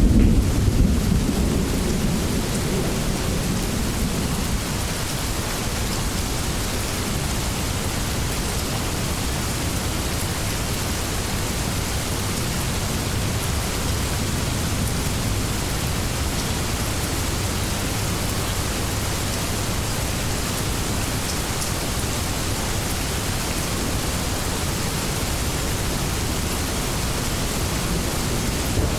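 Steady heavy rain, with a low rumble of thunder that fades away over the first few seconds.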